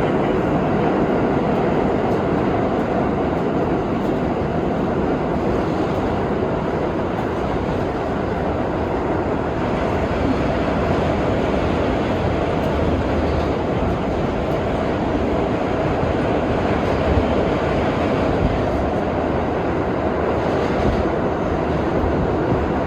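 R32 subway train running at speed through the tunnel, heard from on board: a steady rumble of wheels on rails.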